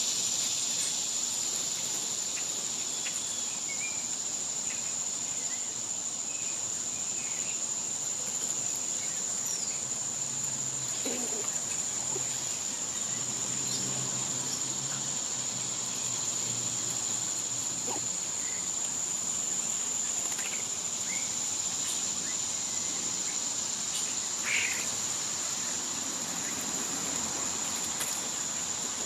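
Steady, high-pitched drone of summer insects, with short bird chirps scattered through it and one louder call about 24 seconds in.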